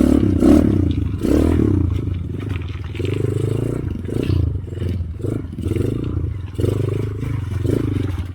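Trail motorcycle engine running as it is ridden through mud, its note rising and falling in repeated surges with the throttle. Short clatter and scraping sounds run alongside.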